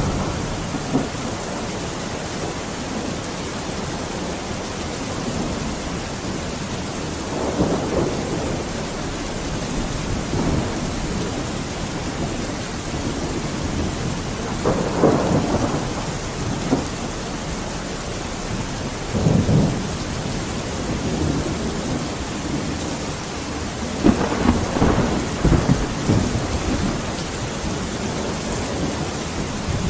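Steady heavy rain with rolls of thunder rumbling several times, the longest near the end.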